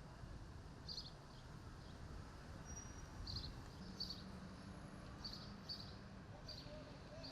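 Faint outdoor background: a steady low rumble with short high bird chirps every second or so.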